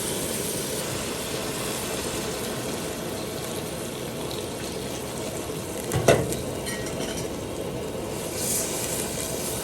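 Food sizzling in a hot pan while it is stirred, with one loud clatter of a utensil against the pan about six seconds in.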